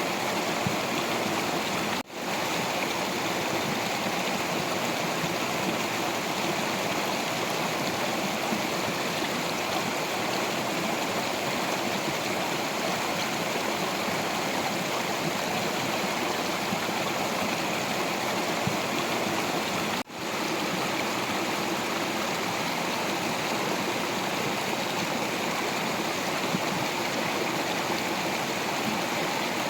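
Water of a stream flowing over rocks, a steady rush. It drops out for an instant twice, about two seconds in and again about twenty seconds in.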